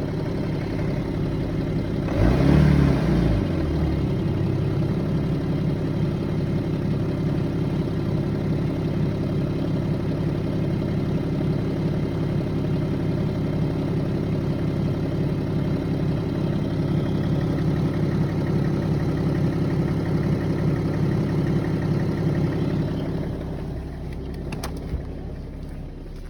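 BMW 330d's M57 3.0-litre straight-six diesel idling warm, with a brief rev about two seconds in before it settles back to idle. The engine has a knock at idle that goes away above 1000 rpm and comes back a few seconds after the revs drop. The sound grows fainter near the end.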